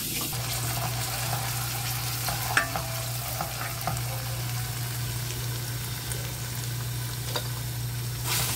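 Chopped onion and garlic sizzling in oil in a frying pan, stirred with a wooden spoon that taps against the pan a few times. Near the end the washed, still-wet rice is tipped in from a metal strainer.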